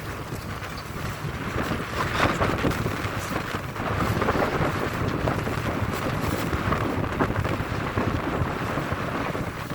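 Wind buffeting the microphone over the rumble of a vessel at sea, gusting louder about four seconds in.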